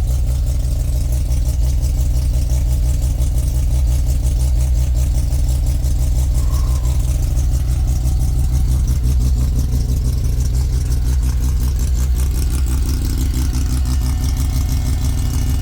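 Turbocharged Mazda RX-7 rotary engine idling steadily through a newly built exhaust, really quiet, at a high idle of about 2,000 RPM.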